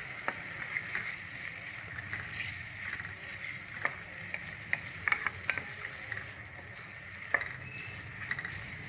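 Sliced onions and chopped tomatoes sizzling in hot cooking oil in a pot, stirred with a wooden spoon, with scattered taps and scrapes of the spoon against the pot.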